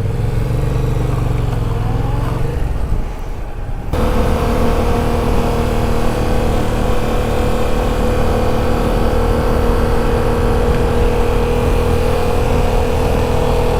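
Motorcycle engine running under way, its pitch wavering for the first few seconds. About four seconds in the sound changes abruptly to one steady engine note held at cruising speed over wind and road noise.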